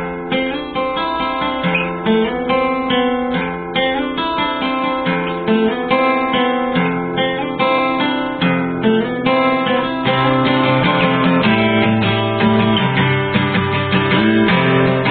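Background music on acoustic guitar, plucked and strummed, growing fuller about ten seconds in.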